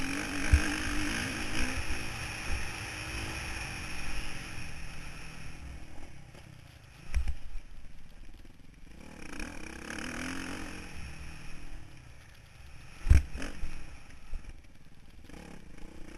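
Motocross bike engine heard from an onboard camera, running with revs rising and falling and wind hiss over it, louder in the first six seconds and lower after. A few heavy thumps knock against the microphone, the loudest about thirteen seconds in.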